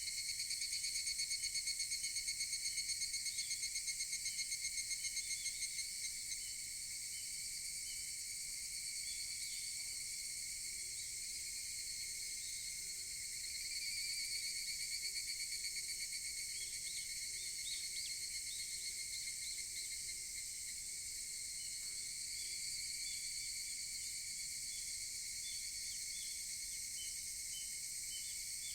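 Higurashi (evening cicadas) calling: one nearby cicada gives a fast pulsing trill for about six seconds, and another swells up about halfway through, over a steady high chorus of insects. Short faint chirps repeat in the background.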